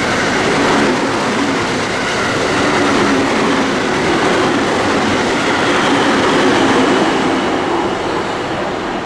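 A JR West electric train running along the station platform: a loud, steady rumble and rattle of steel wheels on the rails, easing slightly near the end.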